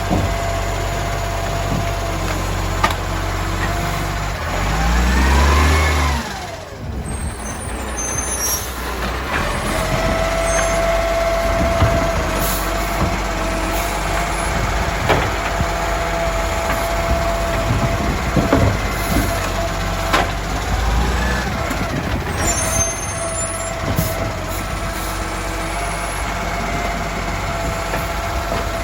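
Garbage truck's diesel engine running, revving up and back down about five seconds in, then a steady whine over the engine with scattered clanks.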